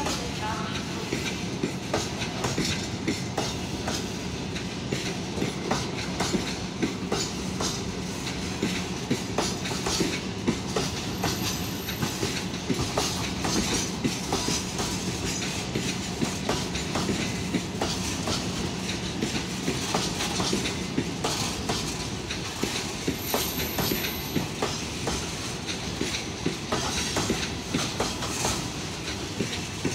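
Freight train of covered boxcars rolling past, its wheels clattering steadily over the rail joints.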